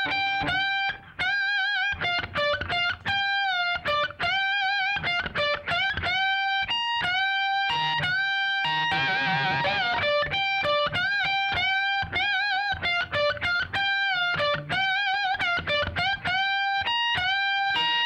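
Electric guitar playing a fast repeating lick high on the neck, over and over. A note on the B string is bent up and alternated with a higher note on the E string, many of the notes wavering in pitch from the bends and vibrato.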